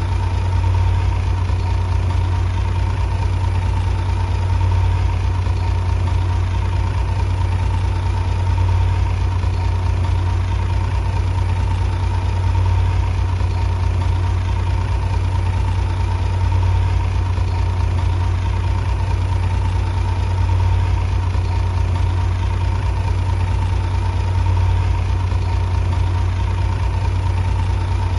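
Bulldozer diesel engine running steadily: a deep, unchanging drone with a faint steady whine above it.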